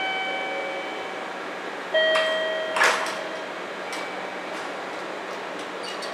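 Two short ringing tones about two seconds apart, then a brief sharp hiss of air, the loudest sound, over a steady hum. They come from a JR 311 series electric train as it is being uncoupled into two four-car sets.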